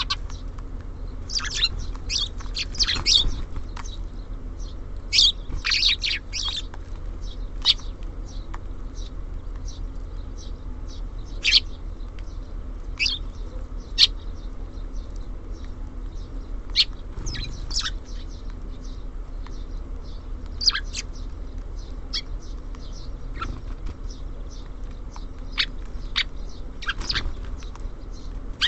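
Small songbirds at a feeder, tits and sparrows, giving short scattered chirps and calls, in busy clusters a couple of seconds in and again near the end, over a steady low hum.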